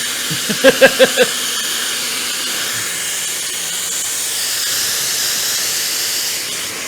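Idoo high-speed hair dryer blowing steadily on hair, an even airy rush. About a second in, four quick voiced sounds cut through it.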